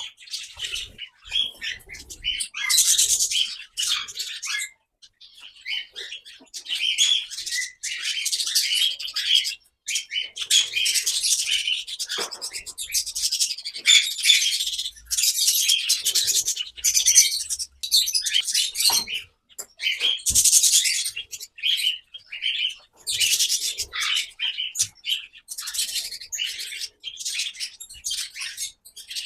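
A mixed aviary flock of parrots and finches chirping and calling in busy bursts a few seconds long, with short lulls between.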